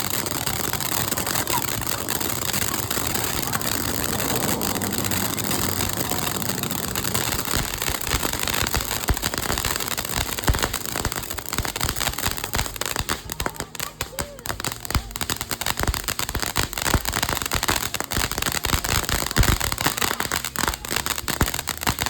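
Fireworks going off: a steady hissing spray, then from about twelve seconds in a dense run of rapid crackles and pops.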